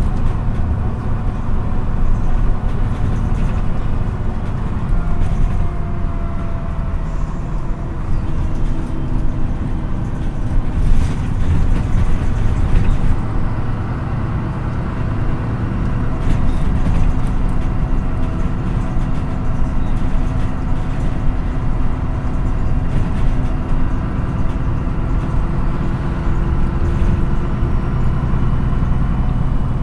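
MAN NÜ 313 city bus under way, heard from inside the passenger cabin: a steady low engine and drivetrain drone whose pitch rises and falls as the bus speeds up and slows. A few knocks or rattles come about eleven to thirteen seconds in.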